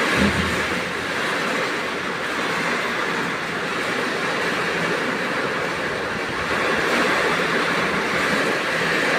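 Heavy rain pouring down in strong wind: a steady, loud rushing noise, with a brief low thump just after the start.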